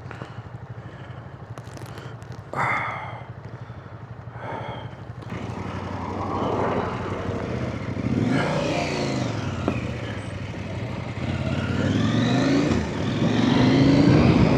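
Adventure trail motorcycle engine running low and steady, then pulling away: the pitch rises and falls several times as it revs up through the gears and grows louder.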